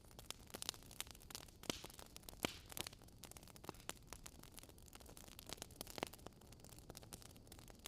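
Faint wood fire crackling, with sharp pops at irregular intervals over a low rumble; the loudest pop comes about two and a half seconds in.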